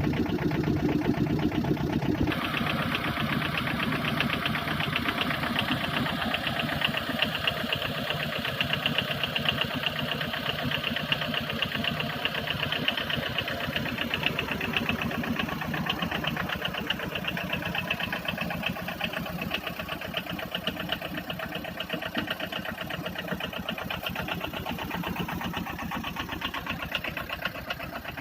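An engine idling steadily with a fast, even beat; about two seconds in the sound turns brighter and thinner, then stays steady.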